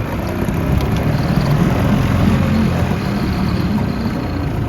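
1994 Yamaha 4 hp two-stroke outboard motor idling steadily just after starting, running smoothly with a freshly rebuilt lower unit and its idle newly adjusted.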